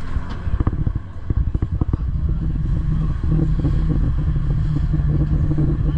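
Gornergrat electric rack-railway train running: a steady low rumble with a cluster of knocks and rattles in the first two seconds, then a steady low motor hum from about two seconds in.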